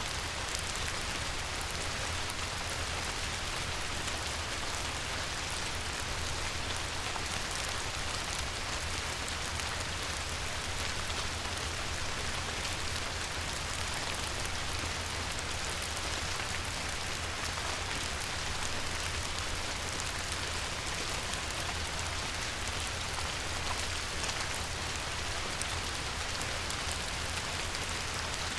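Light rain falling on a river: a steady, even hiss of drops hitting the water, full of fine patter, over a low constant rumble.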